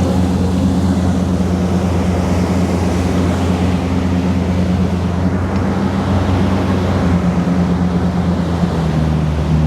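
Engine of a 38-foot cruising boat running steadily under way, a low drone with a steady rushing noise over it. Its pitch drops slightly near the end.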